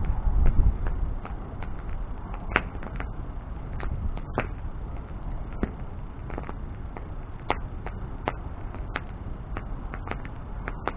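Wood bonfire crackling, with sharp irregular pops and snaps over a low steady rush of flame; the rumble is louder in the first second.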